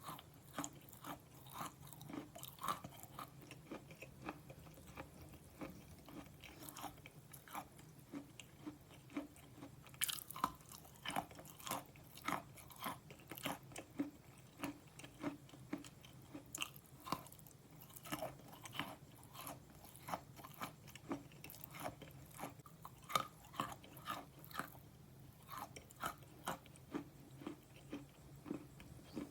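A person biting and chewing slate pencil: crisp crunches, about two a second, over a faint steady low hum.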